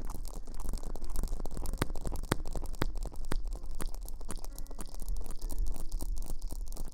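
Close-miked ASMR rustling and crackling on the microphone: dense, irregular crackles over a low rumble. Faint musical tones come in about four and a half seconds in.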